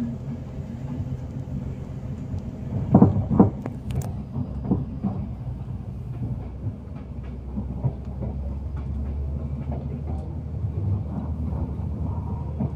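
A moving passenger train heard from inside the carriage: a steady low running rumble and hum with wheels clattering over rail joints, and a louder knock about three seconds in.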